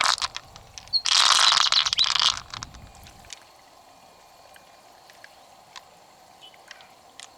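Water splashing and pouring for about a second and a half, then a few faint clicks and taps.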